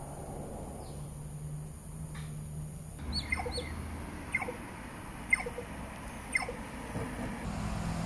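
A bird calling with short, sharp chirps, about one a second, starting about three seconds in, over a steady high-pitched drone.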